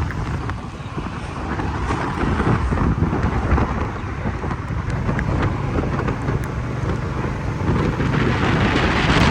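Wind rushing over the microphone of a moving motorcycle, with the engine and road noise underneath, growing a little louder near the end.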